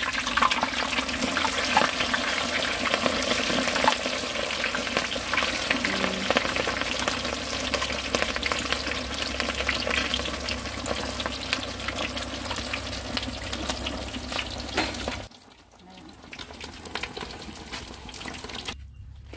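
Food frying in hot oil, sizzling and crackling steadily, then stopping abruptly about fifteen seconds in.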